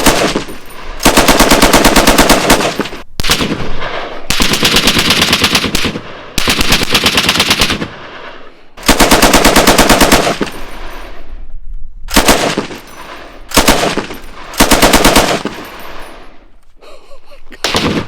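Belt-fed M60 machine gun firing a string of bursts, long and short, heard from behind a reinforced concrete wall while the rounds strike the wall and the earth berm beside it.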